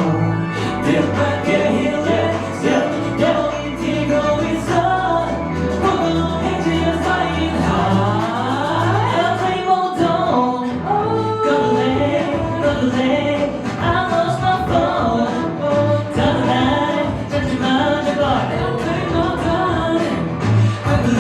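Pop song with sung vocals over a backing track with a steady bass beat.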